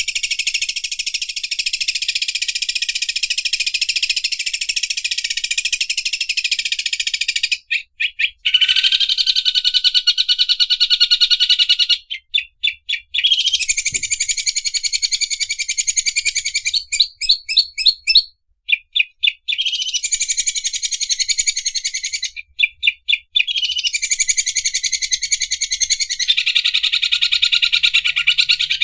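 Cucak ijo (green leafbird) singing its fast, buzzing 'mesin obras' song, a rattle like an overlock sewing machine. Long high rattling phrases of several seconds alternate with short runs of separate clipped notes.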